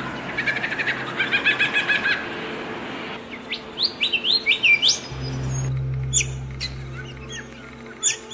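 Songbirds chirping and singing: first a fast run of repeated chattering notes, then a string of quick rising whistled notes, then a few sharp high chirps over a low steady hum.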